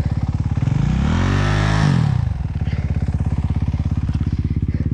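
Dirt bike engine idling with a steady pulsing beat, revved once about half a second in, rising for over a second and then dropping back to idle.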